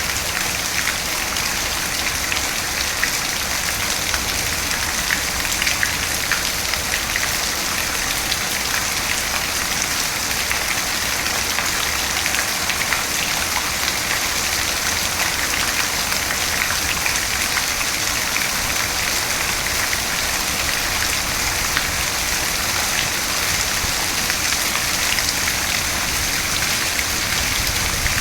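Steady rain falling and pattering on a surface: dense, even hiss with fine drop ticks, no thunder.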